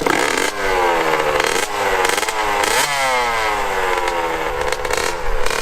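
Honda CR85 two-stroke dirt bike engine revving, its pitch jumping up and then falling away a few times before holding steadier near the end.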